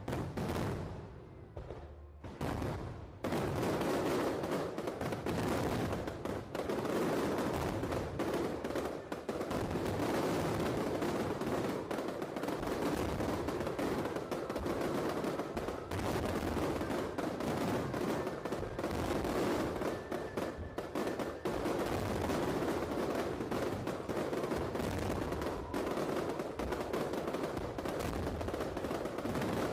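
Fireworks going off in a dense barrage: a rapid, continuous crackle of many overlapping bangs that starts suddenly and thickens into an unbroken roll about three seconds in.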